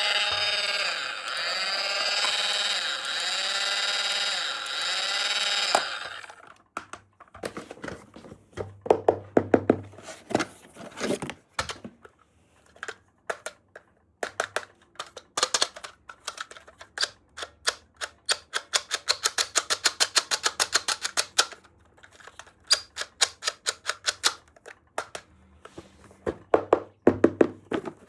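For about six seconds an electronic toy sound plays, a pitched tone that wavers up and down, and then it stops abruptly. After that small plastic toy parts are handled, clicking and tapping, with a fast even run of clicks a few seconds long past the middle.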